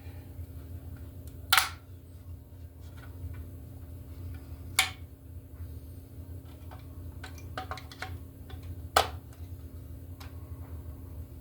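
Three sharp clicks a few seconds apart, with a cluster of lighter ticks between the second and third, over a steady low hum.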